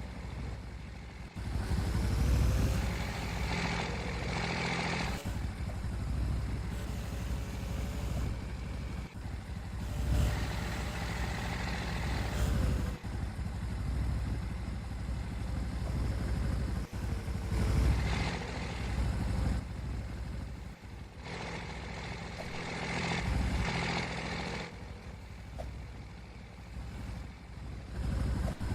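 Vehicles passing on a road, a low rumble that swells and fades about four times.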